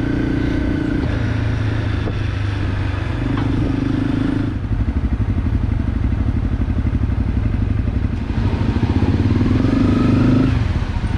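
Motorcycle engine running at low speed in stop-and-go traffic, its exhaust beat turning into a rapid, even pulsing about four and a half seconds in, with a rise in pitch near the end.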